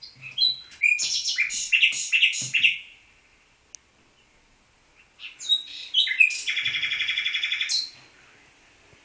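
Songbird singing: two phrases of high chirps and whistles a couple of seconds apart, the second ending in a rapid, even trill of a dozen or so notes a second.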